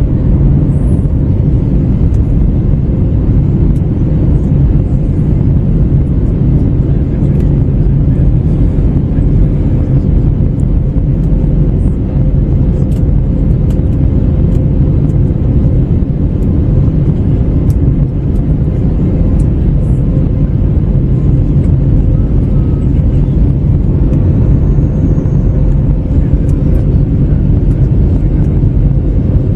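Steady cabin noise of an Airbus A321neo in flight, heard inside the cabin: a constant low rumble of airflow and its Pratt & Whitney PW1100G geared-turbofan engines, with a faint steady hum.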